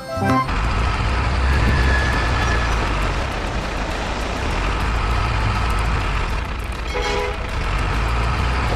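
A heavy vehicle's engine running steadily, a low, even noise with no change in pitch, with a brief tone sounding about seven seconds in.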